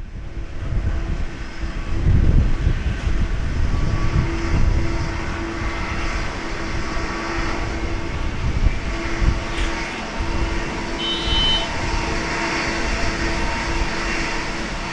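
Boeing 767-300ER jet engines running with a heavy, dense rumble and a steady hum through it, loudest in the first few seconds.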